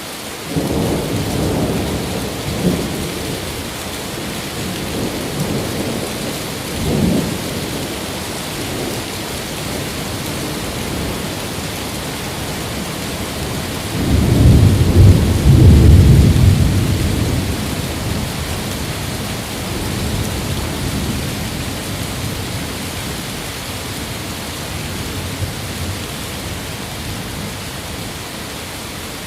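Steady heavy rain with rolling thunder: low rumbles near the start and about seven seconds in, then a much louder, longer roll about halfway through that dies away slowly.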